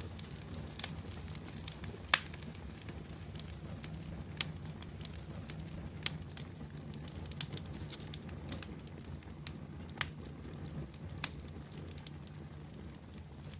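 Open fire crackling: sharp, irregular pops and snaps, the loudest about two seconds in, over a steady low rumble.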